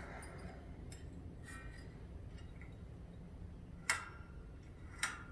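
Light metallic clicks and clinks of small parts and hand tools being handled, with two sharper clicks near the end, over a low steady hum.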